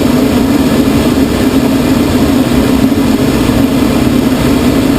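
Steady drone inside a glider's cockpit in flight: rushing airflow over the canopy with a constant low hum that does not change.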